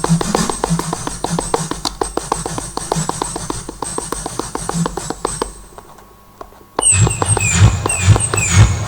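Roland M-DC1 sound module playing a synth sound-effect patch: a fast, even run of short percussive hits over low thuds fades out about five and a half seconds in. After a short gap a new patch starts, with repeating falling high tones over a low pulsing.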